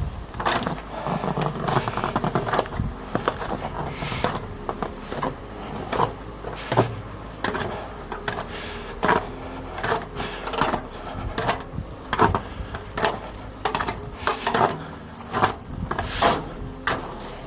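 Footsteps crunching and scraping on snow, irregular, about one a second.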